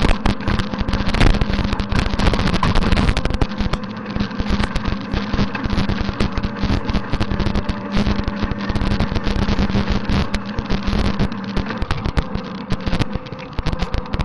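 Tractor engine running steadily while driving a rotary tiller, with a continuous clatter over the engine's hum; the hum drops away near the end.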